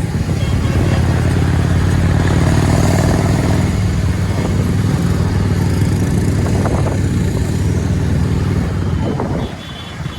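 Motorcycle engine running steadily while riding on a highway, with road noise around it. It eases off briefly near the end.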